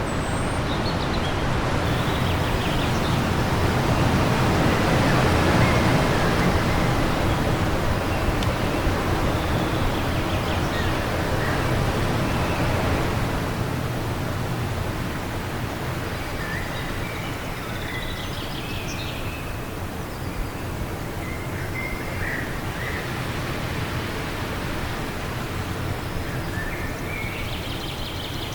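Wind blowing in gusts, strongest about five seconds in and easing after the halfway mark, with short bird chirps scattered through, more of them near the end.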